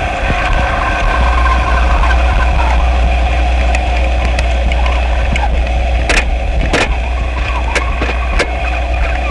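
Experimental noise music: a loud, steady low rumble under layered hiss and faint wavering tones. From about six seconds in, sharp crackling clicks cut through it.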